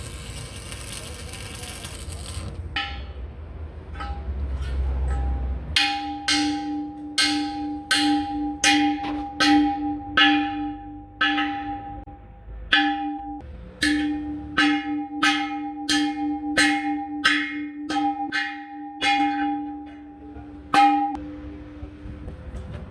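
Steel truck wheel rim struck with a hammer about twice a second, each blow leaving the rim ringing like a bell in the same steady tones. Before the hammering starts there are a couple of seconds of hissing noise over a low rumble.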